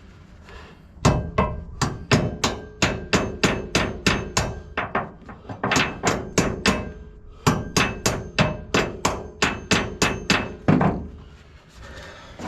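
A hammer repeatedly striking metal fifth wheel hitch parts, a quick run of blows at about three a second with a faint metallic ring and a short break partway through. It sounds like work to knock the hitch into place in the truck bed's rails.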